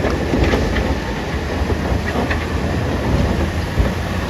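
A large wheel loader's diesel engine runs with a steady low rumble while rocks clatter and knock irregularly against steel.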